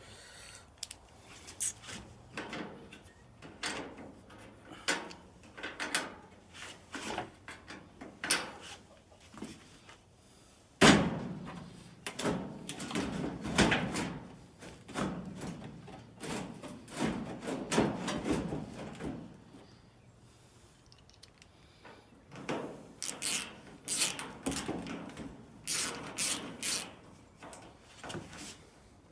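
Sheet-metal dryer cabinet parts being handled and screwed back together: scattered knocks and clicks of metal and tools. About eleven seconds in comes a loud bang, followed by several seconds of rattling and scraping.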